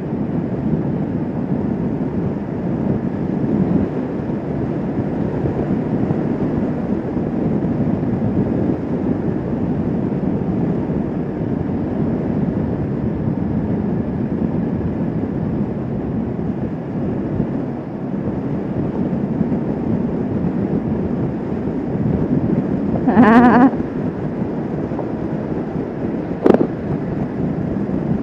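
Kawasaki Vulcan S 650 parallel-twin motorcycle running steadily at cruising speed, with wind rushing over the microphone. A short wavering sound comes near the end, followed a few seconds later by a sharp click.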